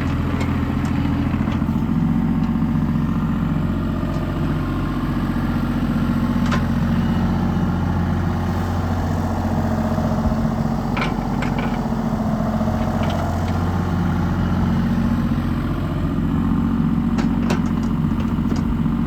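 Kubota KX033-4 mini excavator's diesel engine running steadily, with a few short clanks now and then.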